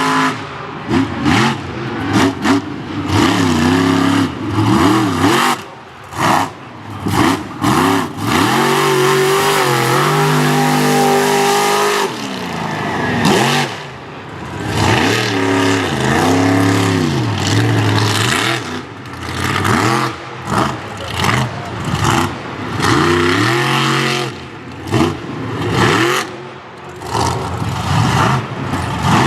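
Monster truck engine at full show volume, revved hard over and over, its pitch climbing and falling with each blip of the throttle and held briefly at high revs a few times, with short cuts in between.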